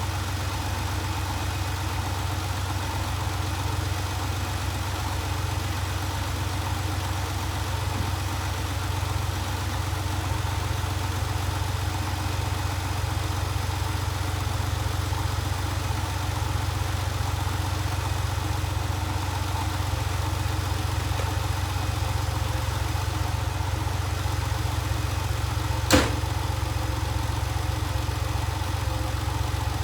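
Car engine idling steadily, heard from outside the car while it warms up after a cold start. A single sharp click sounds near the end.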